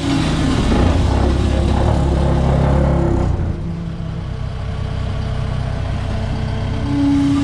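Diesel engine of a piece of heavy equipment revving up about half a second in, holding high, and dropping back to a lower steady run about three seconds later.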